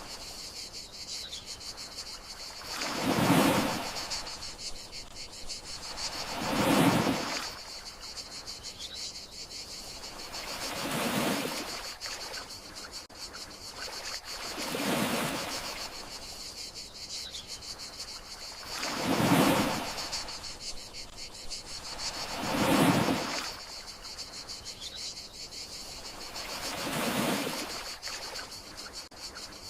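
Gentle sea waves washing ashore, a swell of surf about every four seconds with some stronger than others, over a steady high chorus of crickets.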